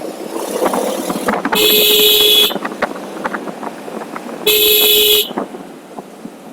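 A vehicle horn sounds twice with a steady tone: first a honk just under a second long, then a shorter one. Road and traffic noise runs underneath.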